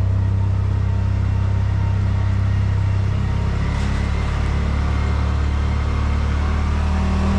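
Side-by-side UTV engine running steadily while driving on a trail, a low drone whose pitch shifts a little about three seconds in.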